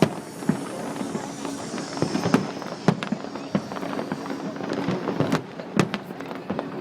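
Fireworks going off in a string of irregular sharp bangs and crackles, a few standing out louder, over a steady hum and background voices.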